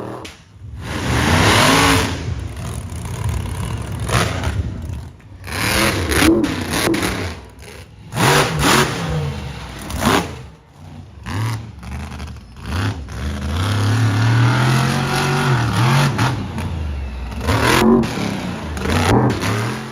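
Monster truck engines revving in repeated loud bursts, with one longer rev that rises and falls in the second half.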